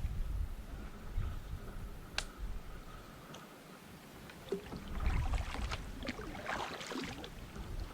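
Water splashing and sloshing around a kayak, with scattered clicks and knocks of handling. The splashing and clicks grow busier from about halfway through.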